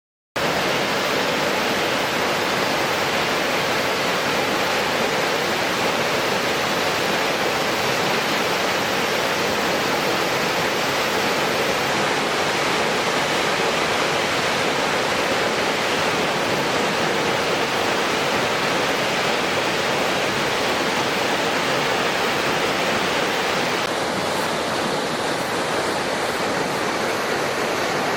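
Waterfall in heavy flood flow after a typhoon: a loud, steady rush of falling water, slightly softer in the highs near the end.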